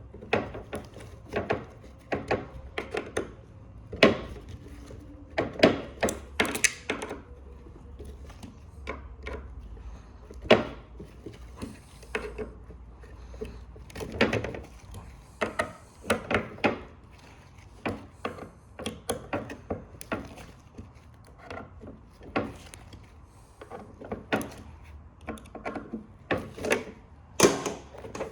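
Irregular clicks and knocks of hand tools and metal parts being handled while screws are worked loose from a printer, some sharper taps standing out.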